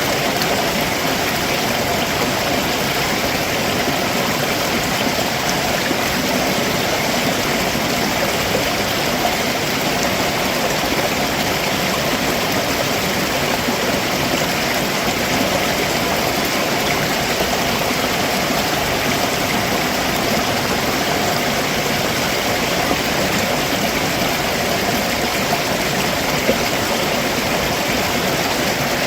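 A rocky stream running steadily over stones below a waterfall, a constant rushing and gurgling of water.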